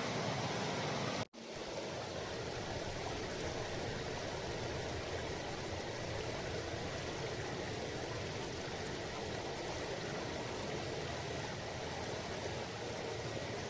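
Mountain river babbling over rocks, a steady rushing murmur. About a second in the sound cuts out for an instant, then resumes slightly quieter.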